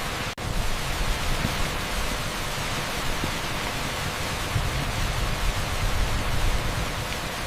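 Torrential rain on an asphalt street: a steady, dense hiss like pink noise, cutting out for an instant about half a second in.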